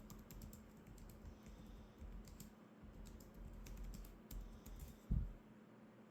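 Typing on a computer keyboard: a quick, irregular run of key clicks with dull thuds under them, ending with one heavier low thump about five seconds in before the typing stops.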